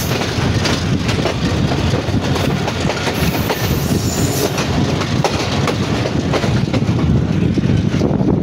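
Passenger train running at speed, heard from inside the leading coach: a steady heavy rumble of wheels on the rails with frequent rattling clicks from the track.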